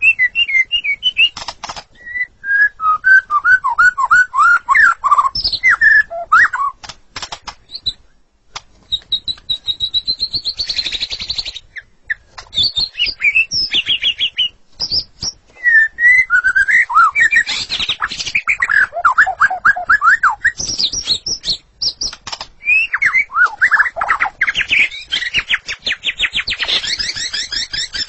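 White-rumped shama singing: loud, varied whistled phrases that glide up and down, broken by sharp clicks. Near the end comes a long, fast run of rapidly repeated notes.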